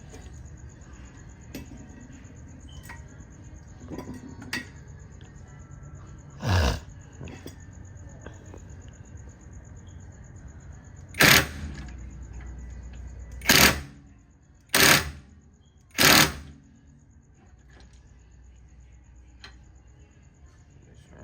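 Air impact wrench fired in five short bursts, one about six and a half seconds in and four more between about eleven and sixteen seconds in.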